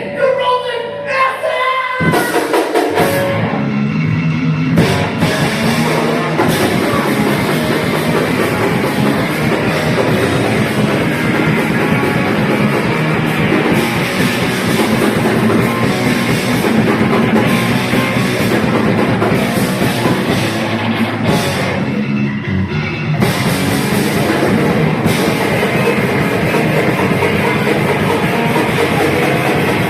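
A grindcore band playing live: distorted guitars, bass and drum kit with vocals. The full band kicks in about two seconds in and thins out briefly about three-quarters of the way through.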